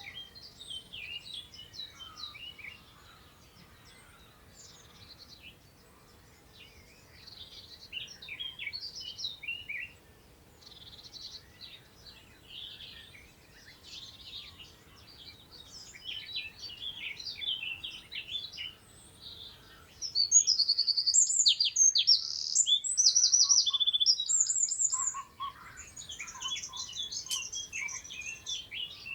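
Several songbirds singing and calling at once in short, overlapping high phrases. About two-thirds of the way through, a nearer bird sings a loud run of fast repeated notes for several seconds.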